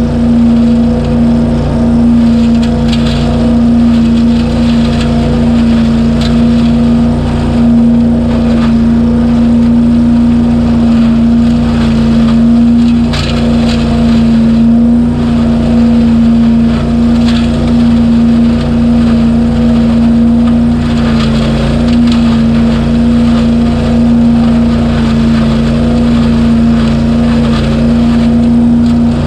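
Gas engine of a BillyGoat debris loader running steadily at full throttle as its impeller sucks up leaves, with a few brief sharp rattles of debris passing through.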